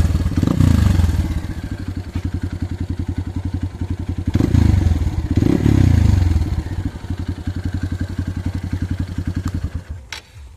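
Hero XPulse 200's single-cylinder engine running through an Arrow aftermarket exhaust, idling with a steady pulsing beat and revved twice, briefly about half a second in and again from about four and a half to six seconds in. The engine sound drops away shortly before the end.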